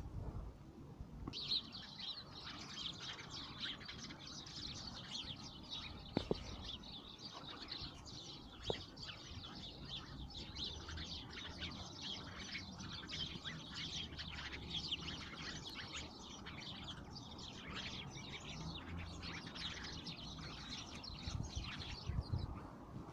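A flock of sparrows chirping continuously in a dense, overlapping chorus of short high chirps, starting about a second in and stopping shortly before the end.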